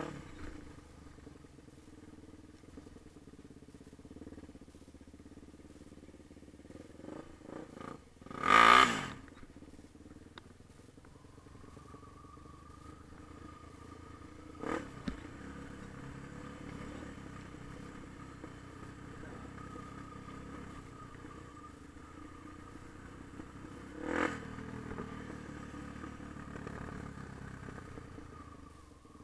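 Yamaha TT-R250 dirt bike's single-cylinder four-stroke engine running at a low, fairly steady level, with one short loud burst about nine seconds in and two smaller ones around fifteen and twenty-four seconds.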